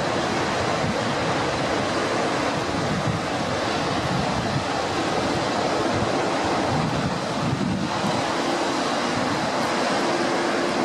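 Steady rushing roar of an aircraft in flight, with a steady low hum under it.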